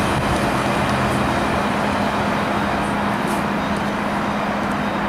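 Freight cars of a long train rolling past on the rails: a steady, even rolling noise with a steady low hum running through it.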